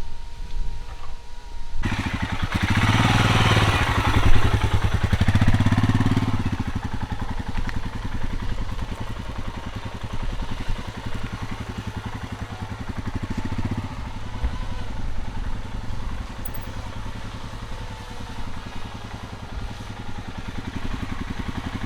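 Motorcycle engine that comes in strongly about two seconds in and runs loudest for a few seconds. It then keeps running more quietly and evenly, as it would during slow-speed manoeuvring drills.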